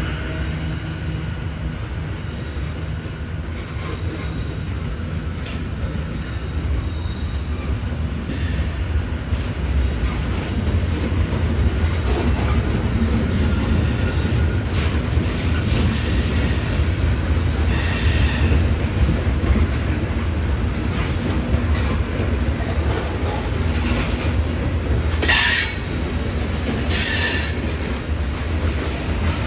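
Train cars rolling past with a steady low rumble and clicking of wheels over rail joints. The wheels squeal briefly a few times, loudest near the end.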